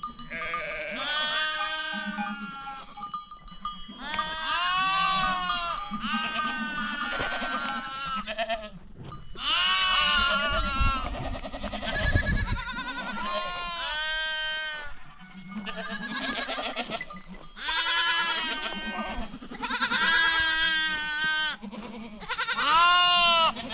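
A flock of goats and sheep bleating, many calls overlapping at once in waves with brief lulls between.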